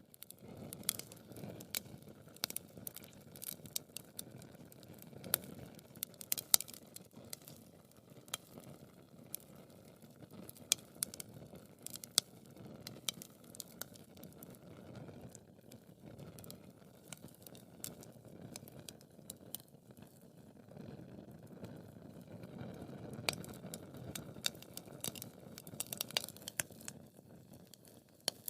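Wood fire burning in a fireplace: irregular sharp crackles and pops over a soft, low rustle of flames, with a few louder pops standing out.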